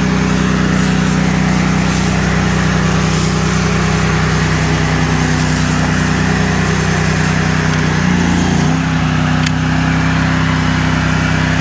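Gas-engine pressure washer running steadily, with the hiss of the high-pressure spray as concrete is pre-cleaned. The engine's pitch wavers briefly about eight seconds in.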